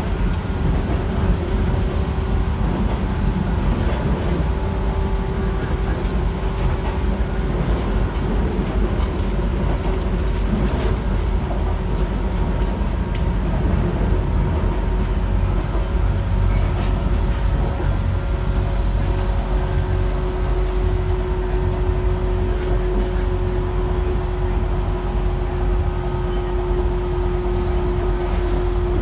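Interior of a JR 115 series electric train running at a steady speed: a constant wheel-on-rail rumble with a steady motor whine and a few faint clicks.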